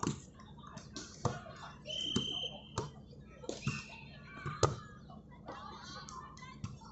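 Sharp thuds of a ball, about six in all with the loudest a little before five seconds in, mixed with a few short high squeaks, over faint background voices of players and onlookers.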